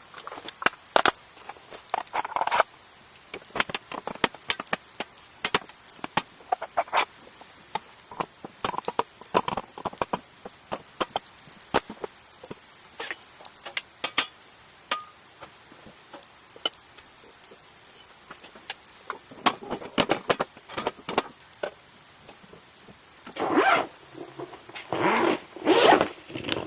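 Raindrops pattering irregularly as scattered sharp ticks, with a few louder rustling or scraping sounds near the end.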